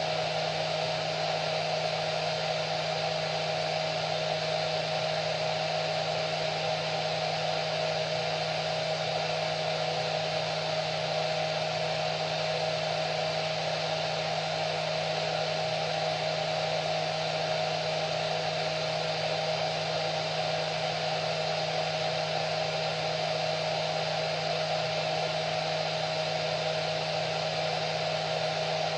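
Hair dryer running continuously: a steady rush of air with a constant motor hum and whine, unchanging throughout.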